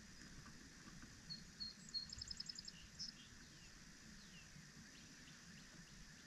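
A songbird sings one short, high phrase about a second in: a few separate notes, a quick trill of repeated notes, and a last note. Faint steady outdoor background throughout.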